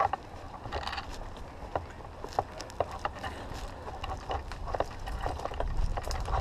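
Irregular sharp clicks and snaps, a few a second, over a low rumble of wind and handling on the camera.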